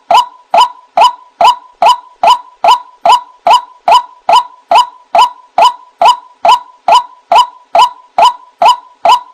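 White-breasted waterhen (ruak-ruak) calling: a loud, sharp 'kruak' note repeated at an even pace of about two to three a second, played as a bird-trapping lure call.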